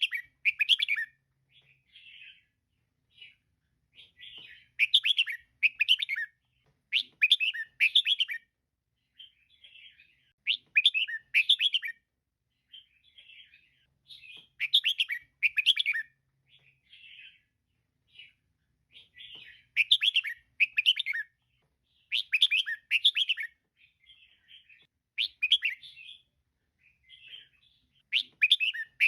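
Female red-whiskered bulbul calling: short bursts of quick chattering notes, the louder ones coming in pairs or threes every few seconds, with softer notes between.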